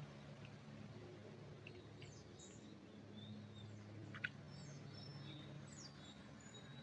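Faint, scattered bird chirps and short whistles in a pine forest, over a low steady hum. A single sharp click comes about four seconds in.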